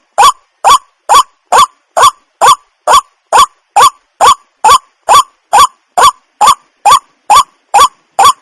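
Water hen calling: a single short note repeated evenly, about two a second, each one rising and falling quickly in pitch.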